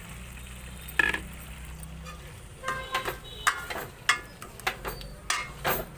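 Metal spoon clinking and knocking against a cooking pot as raw chicken pieces are added to the onion masala and stirred. There is one ringing clink about a second in, then a run of irregular knocks and scrapes from about two and a half seconds on.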